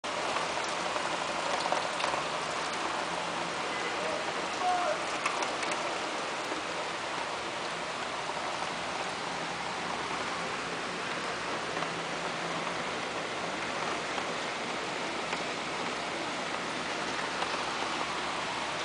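Heavy rain falling steadily, a continuous downpour on pavement and parked cars, with a few sharper drop taps in the first few seconds.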